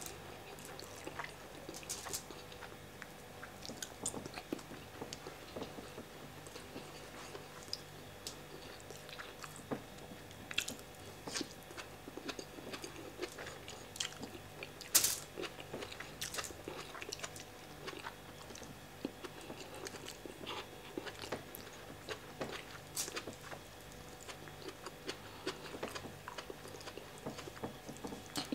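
A person chewing mouthfuls of jollof rice eaten by hand, with irregular short clicks and crunches from the mouth; the loudest click comes about halfway through.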